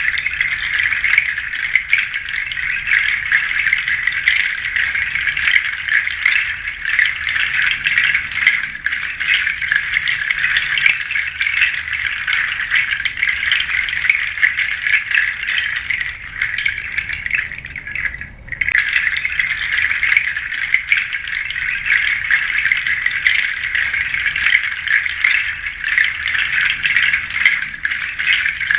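Pangi seed shaker shaken continuously, a dense, even rattle of hard seeds, pausing briefly about eighteen seconds in.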